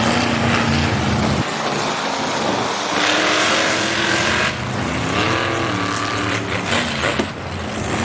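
Monster truck engine running and revving, its pitch rising and falling several times around the middle.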